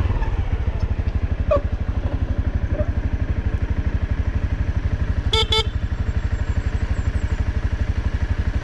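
Off-road motorcycle engine idling steadily, its firing pulses running at about a dozen a second. Two short high chirps sound about five seconds in.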